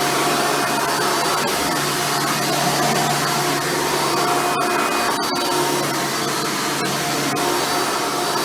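Hoover Futura Elite upright vacuum cleaner, its 7 amp motor and 7-bladed fan running steadily while vacuuming, with the brush roll turning.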